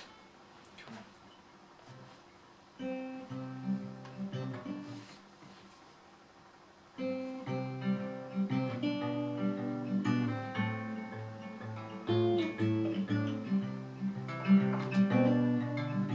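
Acoustic guitar playing an instrumental intro. After a few faint clicks it plays a short phrase about three seconds in, pauses, then settles into steady picked and strummed playing from about seven seconds.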